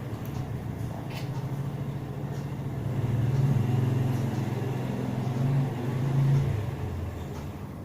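A motor vehicle's engine running, a low hum that grows louder over a few seconds and then fades away near the end, as it passes by.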